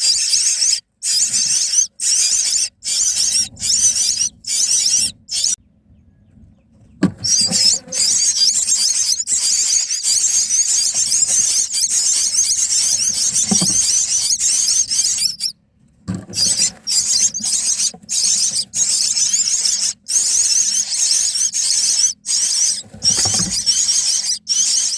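Myna nestlings giving shrill, wavering begging calls almost without a break, chopped by short gaps. The calling stops for about a second and a half a few seconds in, and briefly again past the middle. A few soft low bumps come from the nest.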